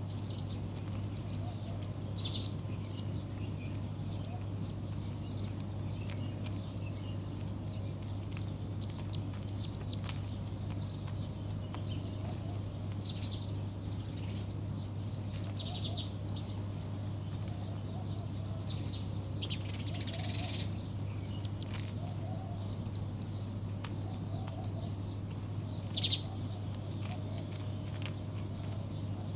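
Small birds chirping in short, scattered calls, with a longer run of chirping about two-thirds of the way through and a brief louder call near the end, over a steady low hum.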